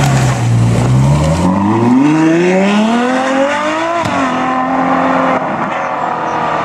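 A car engine accelerating hard, its pitch rising for about three seconds. About four seconds in, a gear change drops the pitch suddenly, and the engine then pulls on steadily and fades away.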